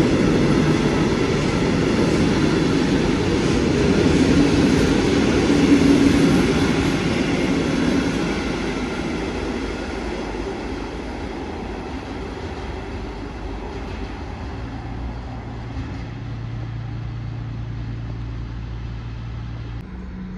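A train passing, loudest about six seconds in, then fading away into the distance. A low steady hum comes in over the last few seconds.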